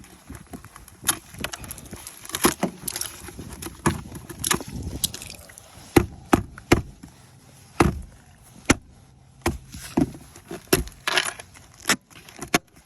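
Ice being chipped and scraped off a truck: irregular sharp knocks and cracks, some close together, with scraping in between.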